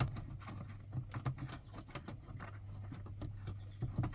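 Irregular light clicks and taps of hands working a bolt into the pedal bracket under the dashboard, over a steady low hum.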